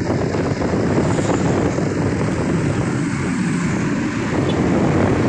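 Diesel truck engine running loudly and steadily, a dense low drone.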